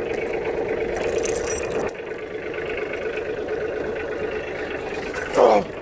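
Kioti DK35 SE tractor's diesel engine running steadily, with a dip in level about two seconds in. A loud, brief falling whine comes near the end.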